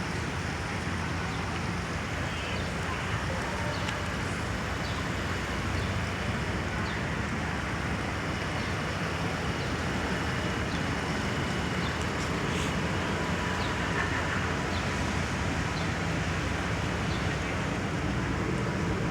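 Steady city street noise on a rainy evening: a constant hiss of rain and wet traffic with a low rumble of passing vehicles, dotted with faint light ticks.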